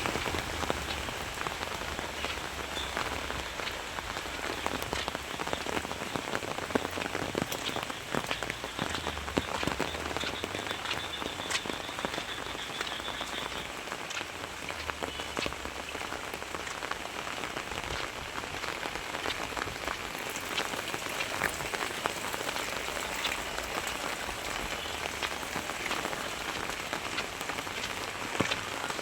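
Very heavy rain falling steadily, with a dense scatter of individual drops striking surfaces.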